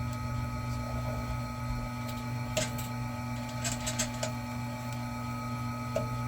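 Vevor electric wire-stripping machine's motor running with a steady hum. A few sharp clicks come through it: one a little before the middle, a quick cluster just after, and one more near the end.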